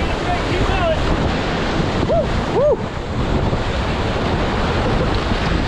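Whitewater rapids rushing loudly and steadily around a raft, with wind buffeting the microphone. Two brief pitched sounds come about two seconds in.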